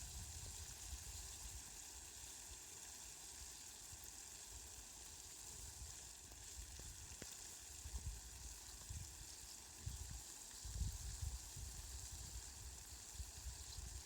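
Steady, even hiss of falling rain, with irregular low rumbles coming and going in the second half.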